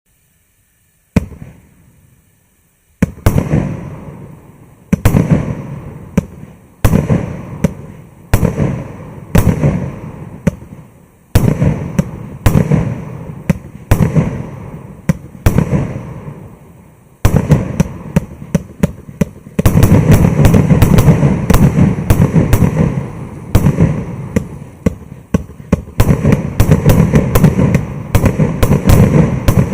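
100-shot firework cake firing. A single bang comes about a second in, then from about three seconds single shots follow every second or two, each one sharp and dying away over a second or so. Past the middle the shots come faster and run together into a dense volley.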